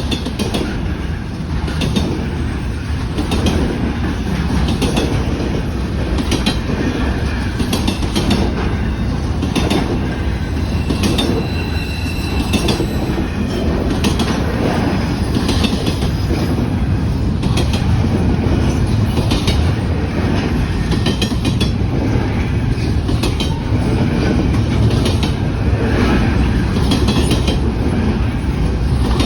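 Railroad cars rolling past steadily, a continuous low rumble with wheels clicking over rail joints in a repeating pattern. A faint high wheel squeal comes in briefly about midway.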